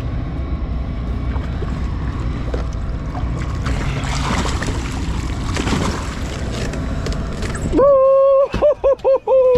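Steady low rumble and wash of a fishing boat at sea, growing a little noisier partway through. Near the end the rumble drops away and a loud, high, wavering pitched sound starts, breaking off several times.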